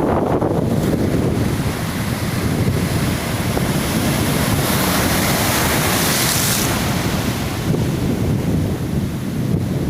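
Sea surf breaking and washing on the shore, with wind buffeting the microphone in a steady low rumble. The hiss of a wave rises about five seconds in and dies away around seven seconds.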